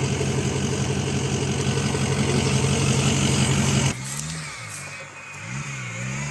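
Off-road vehicle engine running loud and steady at high revs under load. About four seconds in it cuts off abruptly to a quieter engine revving up and down several times.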